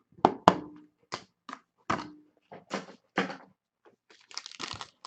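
A series of separate knocks and taps on a hard surface, a couple with a short hollow ring. Near the end they give way to crinkling.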